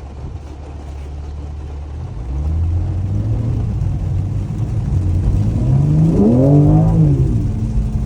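Car engine accelerating. A steady low drone gives way about two seconds in to a climbing engine note, which rises sharply near the end and then drops back, as at an upshift.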